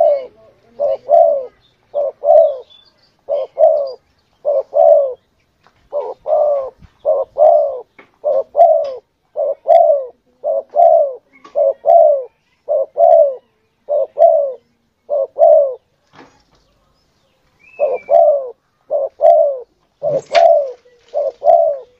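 Spotted dove (tekukur) lure call: paired cooing notes repeated about once a second, stopping for a second and a half about 16 seconds in, then resuming. A short higher chirp comes near 18 seconds, and a sharp click about 20 seconds in.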